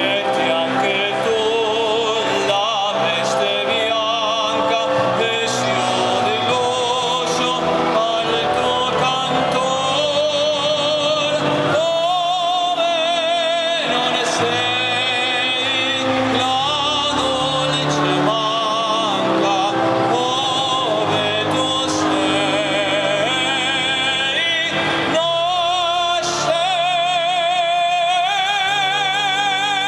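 A gondolier singing an operatic, Italian-style song in a full voice with a wide vibrato, holding long notes between short breaths.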